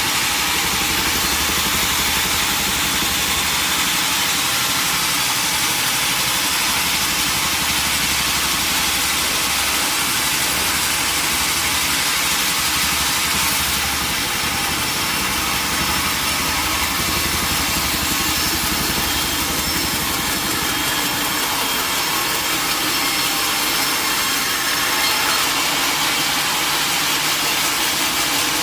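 Sawmill machinery running steadily: a loud, constant mechanical noise with no breaks.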